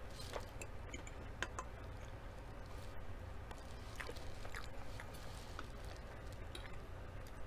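Close-up eating sounds: chewing and mouth noises, with scattered light clicks of a metal fork against a ceramic plate. A steady low hum runs underneath.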